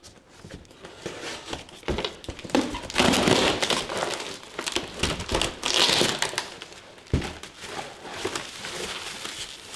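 Hands opening a mailed package: packaging crinkling and rustling in irregular bursts, loudest around three and six seconds in, with a single knock about seven seconds in.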